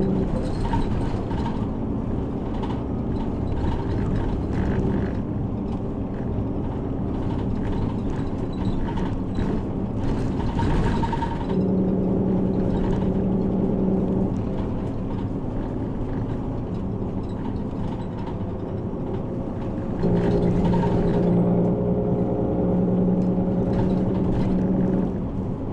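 A route bus's engine and road noise heard from inside the cabin: a continuous low rumble with a steady engine hum that comes and goes, and a short burst of hiss about ten seconds in.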